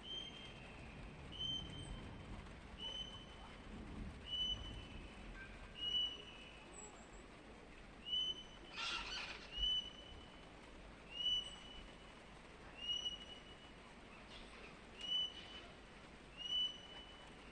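A parrot repeating a short, clear whistled call about every second and a half, with one harsher, noisier call about nine seconds in.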